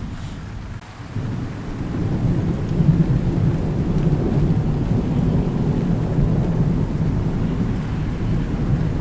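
Thunderstorm with rain: a low rumble of thunder builds about a second in and rolls on steadily over the hiss of falling rain.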